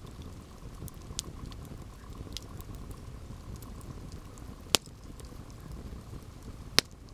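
Wood campfire burning with a steady low rush and faint scattered crackles, and two sharp, loud pops, one near the middle and one near the end.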